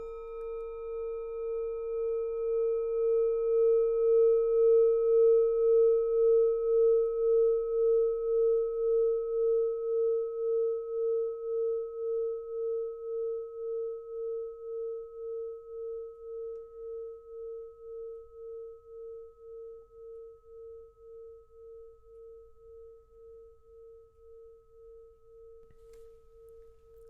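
A singing bowl rings with one low tone and a few fainter higher overtones. It starts sharply, swells for about five seconds, then slowly fades with a steady wavering pulse.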